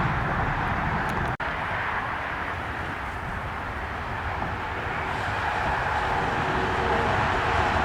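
Jet airliner passing, its engines giving a steady rushing noise that eases a little midway and builds again toward the end, with a momentary drop-out about one and a half seconds in.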